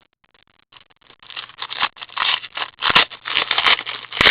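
Hockey trading cards being handled and slid against one another: a dry scraping and rustling in short irregular bursts, starting about a second in, with a few sharp clicks.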